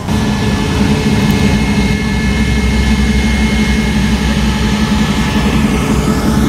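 A car engine idling loudly and steadily close by, its pitch holding level throughout.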